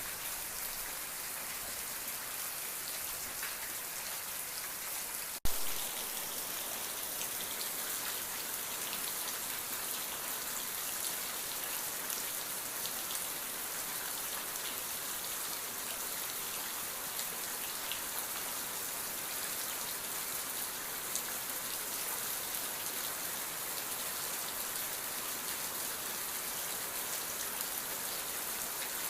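Steady rain falling, an even hiss of many drops, with one sharp click about five seconds in.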